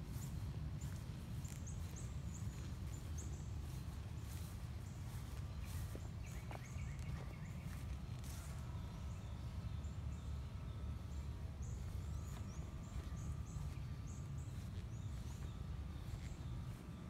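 Outdoor ambience: a steady low rumble, with small birds chirping in short high chirps repeated throughout.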